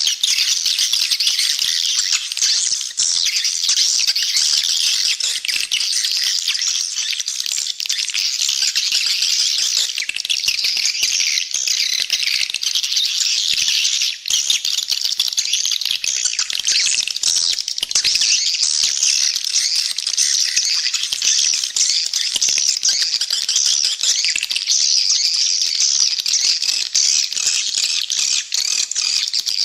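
Swiftlet calling sound: a dense, unbroken chorus of rapid, high-pitched chirps and chittering from many swiftlets. This is the call or lure recording played from swiftlet houses to draw birds in to roost and nest.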